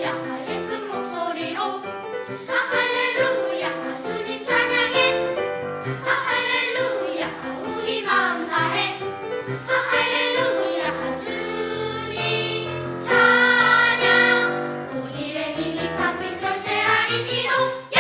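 Church choir singing a sacred anthem in full chords, swelling to its loudest passage about thirteen seconds in before the final chord fades.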